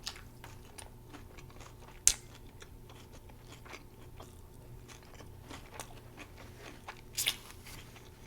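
Close-miked chewing of a homemade Impossible Burger: soft wet clicks of mouth sounds, with a sharp crunchy bite about two seconds in and another loud crunch near the end.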